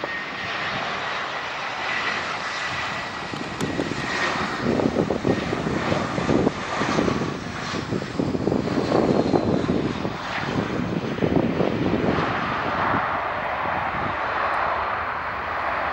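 Airbus A319-111 airliner with CFM56 turbofan engines passing on landing approach: a steady high engine whine and a falling whine, then heavy uneven rumble through the middle, easing into a steady rushing sound near the end.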